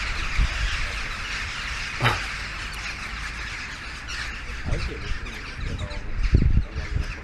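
A large flock of crows calling overhead, a dense steady chatter of many caws, with low rumbles of wind or handling on the microphone.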